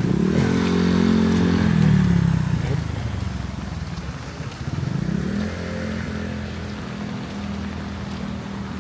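A motor vehicle engine passes close, its pitch falling as it goes by. About five seconds in, an engine revs up and then runs at a steady pitch.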